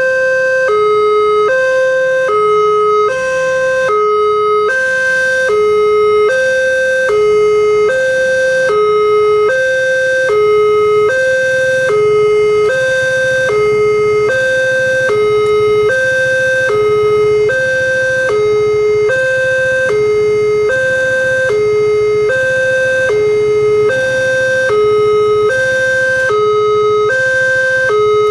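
Railway level-crossing warning alarm sounding a two-tone electronic signal, high and low notes alternating evenly about every 0.7 s, warning that a train is approaching.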